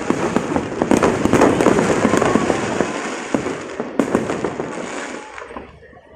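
An aerial fireworks display bursting in rapid succession, with dense crackling and popping. It thins out and fades away near the end.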